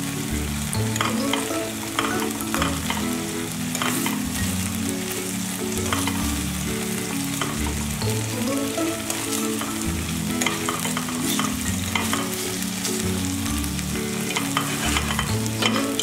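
Lamb testicles sizzling as they fry in oil in a stainless steel pan, with short clicks of metal tongs against the pan as the pieces are turned. Soft background music plays underneath.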